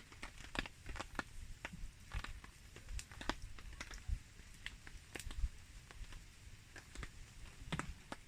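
Wood campfire crackling in the rain: irregular sharp pops and ticks, a few a second and uneven in strength, over a faint low rumble.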